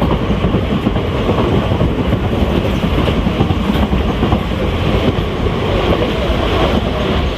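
A passenger train running along the track, heard from a carriage window: a steady, loud rumble and rattle of the wheels on the rails.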